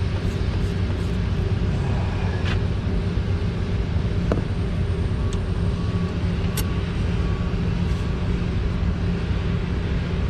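A steady low engine-like rumble runs throughout, with a few light, sharp clicks of hand tools on metal as a strap bolt is worked loose.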